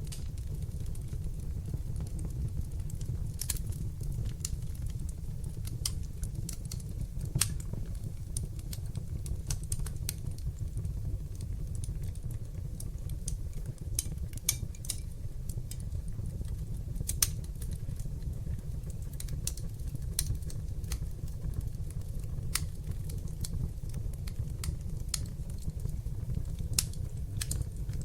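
Wood fire crackling in a fireplace: irregular sharp pops and snaps over a steady low rumble of the burning flames, with a few louder pops now and then.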